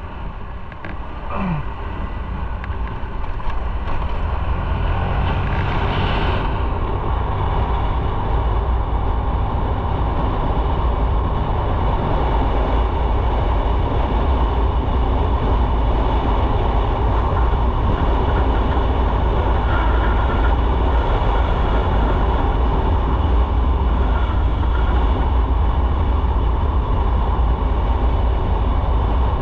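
Motorcycle riding on the road, heard from on board: a steady low engine rumble mixed with road and wind noise, getting louder over the first few seconds as it picks up speed, then holding steady.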